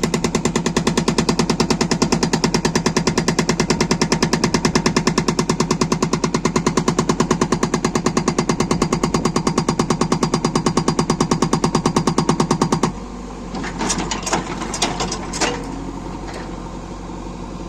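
Hydraulic rock breaker on a JCB 3DX backhoe loader hammering stone in a fast, steady run of blows, several a second, that stops abruptly near the end. A few loud knocks follow, then the machine's engine runs on.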